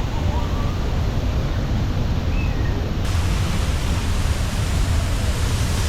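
Steady rushing roar of falling water from a waterfall, with a deep low rumble; about three seconds in it turns brighter and more hissy.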